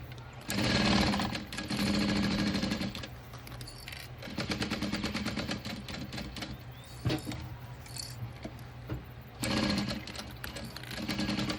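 Juki DU-1181N industrial walking-foot sewing machine stitching in short runs, starting and stopping about four times, with a motor hum under the rapid stitch rhythm. A few single clicks fall in the pauses.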